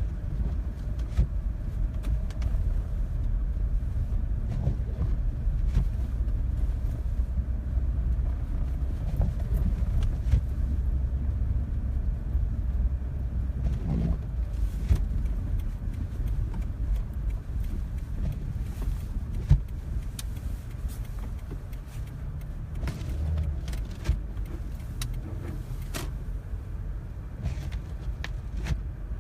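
Car driving on a slippery, snow-covered road, heard from inside the cabin: a steady low rumble of engine and tyres, with scattered clicks and knocks.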